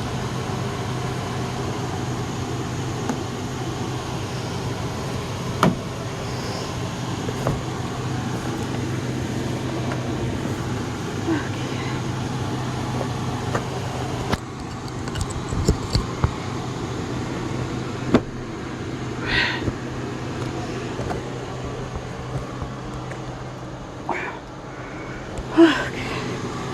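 A steady low hum with background noise, the higher hiss dropping away about halfway through, and a few scattered knocks and brief rustling sounds as bags are moved about.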